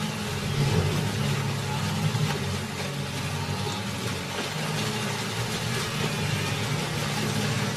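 A wildebeest herd crossing a shallow river: a steady mass of splashing hooves with continual low grunting from many animals.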